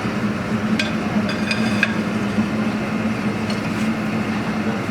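Steady drone of a borehole drilling rig's engine running, with a few sharp metallic clinks in the first two seconds.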